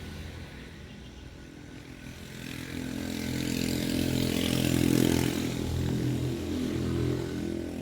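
A vehicle engine running, growing louder from about two seconds in and loudest about five seconds in.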